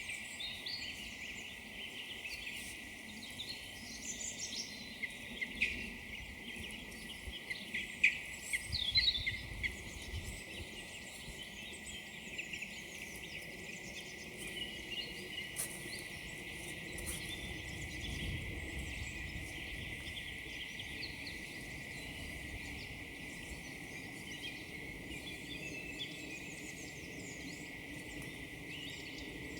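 Woodland songbirds chirping and calling in short, bright notes, busiest and loudest in the first third, over a faint steady low rumble.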